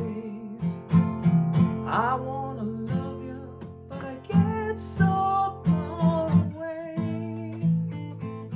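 Acoustic guitar strummed in a steady rhythm, ringing chords in a song.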